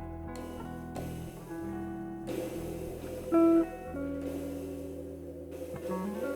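Instrumental trio of guitar, bass and drums playing a slow samba; guitar notes ring over a held bass line, with one louder guitar note about three and a half seconds in.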